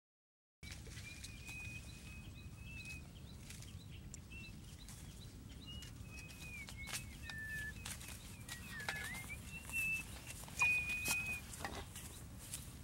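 Birds calling in outdoor ambience: clear whistled notes, some held steady and some gliding up or down, over a low steady background noise. Scattered rustling clicks come through, louder near the end.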